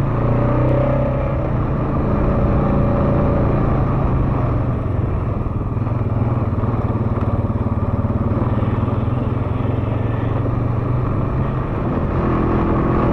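Honda ATV engine running at a steady low speed as the quad rides along.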